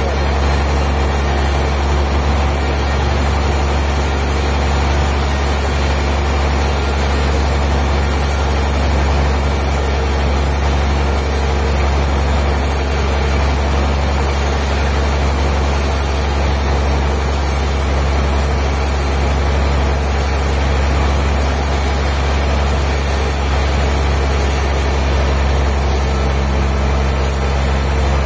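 A heavy engine running steadily at one constant speed, with a strong low hum and no change in pitch or level.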